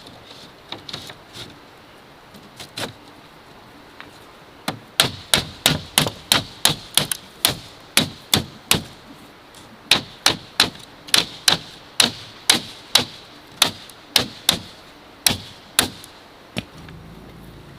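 Rapid sharp strikes of a hand tool on bamboo, about three a second. A few scattered blows come first, then a steady run begins about five seconds in, with a short pause about halfway.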